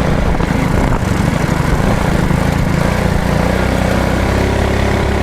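Mini bike engine running under throttle while being ridden, its pitch holding steadier about four seconds in.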